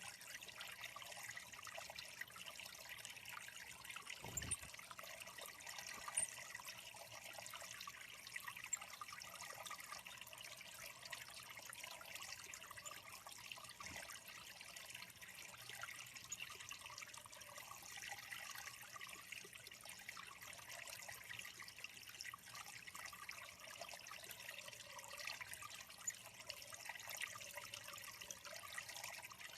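Faint, steady trickle of water running into a small bird pond, with a few brief high chirps over it and a soft low thump about four seconds in.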